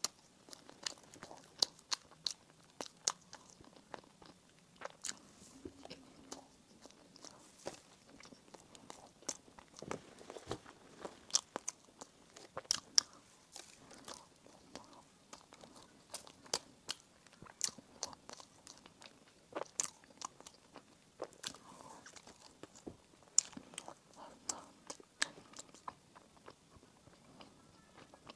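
A person chewing and biting baked goods close to the microphone: many sharp, irregular mouth clicks and small crunches.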